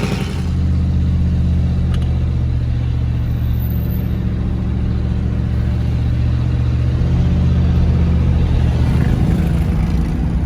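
Straight-piped 2006 Ford F-150's engine running steadily, getting a little louder in the second half.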